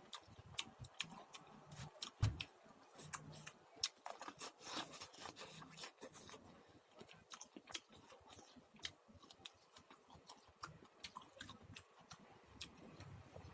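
Popcorn being chewed close to the microphone: a steady run of small crisp crunches and clicks, with one louder crunch about two seconds in.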